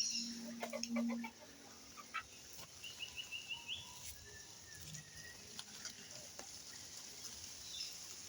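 Chickens clucking faintly, with small birds giving a short run of high chirps about three seconds in.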